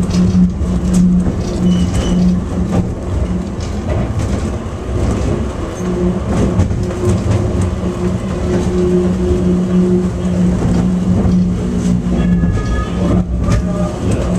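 Airport underground people-mover train running between stations, heard from inside the car: a steady motor hum over a low rolling rumble, with scattered clicks and rattles.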